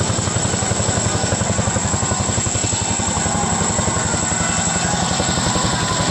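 Helicopter flying overhead, its rotor blades beating in a fast, steady chop, with a thin, steady high whine above it.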